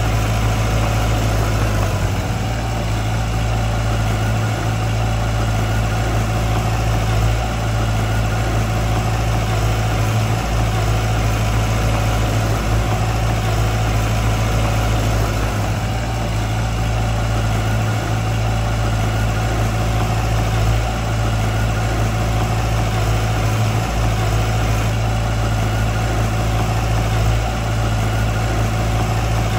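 Diesel engine of heavy earthmoving machinery running steadily at a constant, unchanging pitch.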